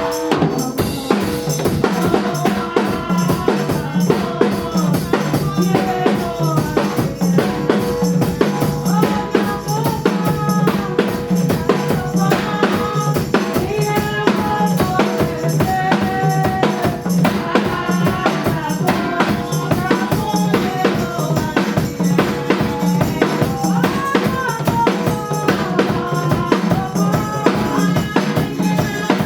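Church praise band music led by a drum kit, with bass drum, snare and rimshots keeping a steady beat under pitched parts.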